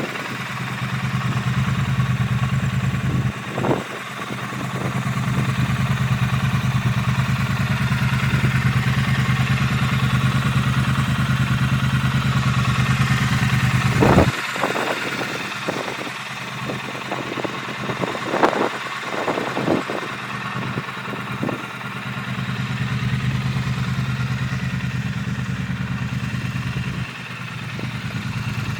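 Triumph Street Twin's parallel-twin engine idling steadily, with a scatter of sharp clicks and knocks through the middle.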